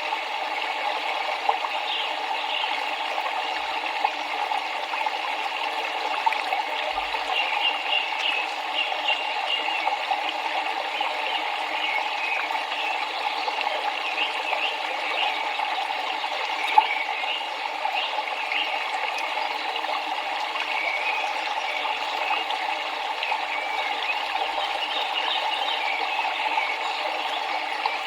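River water flowing steadily, a continuous babbling rush with many small high flecks of sound over it.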